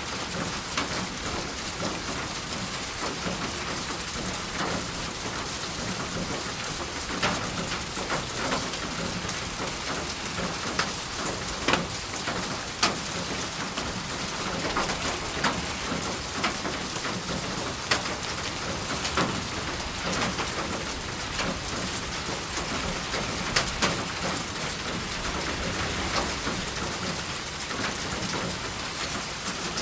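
Steady rain falling, an even hiss, with louder single drops striking a surface as sharp ticks every few seconds.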